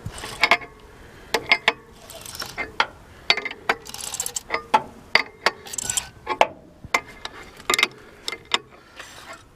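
Big wrench on the seized Ford flathead V8 turning its crankshaft over by hand: irregular metallic clicks and clanks with a few short scraping stretches as the stuck engine breaks free and rotates.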